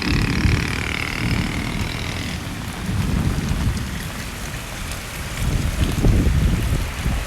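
Heavy rain falling steadily, with low rumbling surges coming and going. A high wavering drone fades out about two seconds in.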